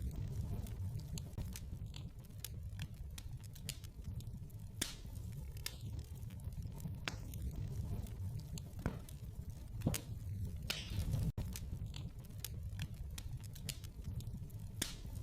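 Wood fire crackling in a fireplace: irregular snaps and pops over a low, steady rumble, with a louder pop and a brief hiss about ten seconds in.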